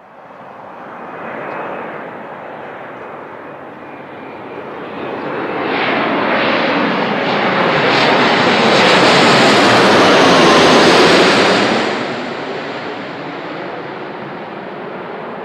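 Boeing 787-9's twin turbofan jet engines running as the airliner passes. The noise builds, is loudest for a few seconds past the middle, then drops off sharply and carries on at a lower level.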